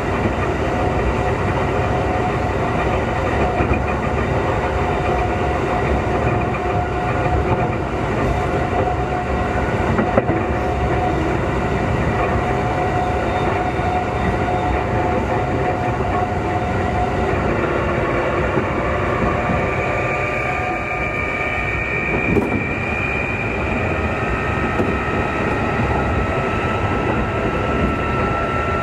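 Running noise inside a Keikyu 2000 series car (DeHa 2052), with steady rail rumble and clickety-clack. From about two-thirds of the way in, the traction motors add a whine that rises slowly in pitch as the train powers up. The car's motors, thought to be Mitsubishi-made, are known for an unusual groan when powering and braking at low speed.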